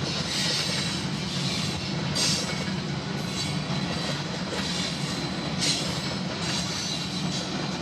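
Train cars rolling past steadily, with two brief high-pitched swells of wheel noise about two and five and a half seconds in.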